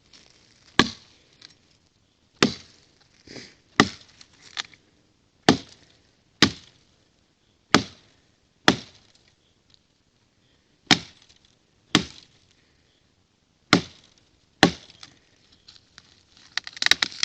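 A kukri chopping into a dry standing dead tree: about a dozen sharp strikes at an uneven pace of roughly one a second, with a short burst of crackling near the end. The trunk is being cut only part way through so it can be broken off by hand.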